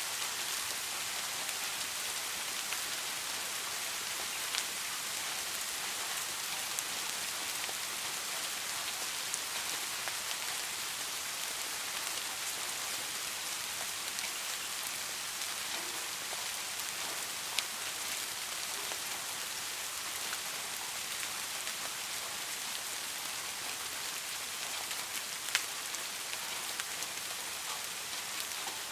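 Steady rain falling, an even hiss with occasional louder individual drops ticking close by.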